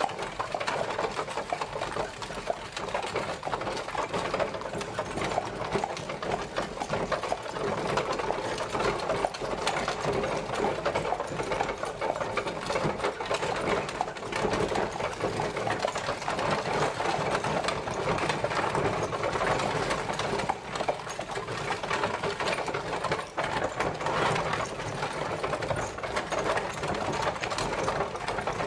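Horse-drawn carriage travelling, a steady, rapid rattling clatter that keeps on without a break.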